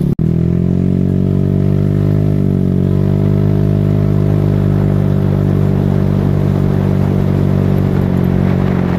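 Polaris Ace 150's single-cylinder four-stroke engine idling steadily through an aftermarket slip-on muffler, the note holding level without revving.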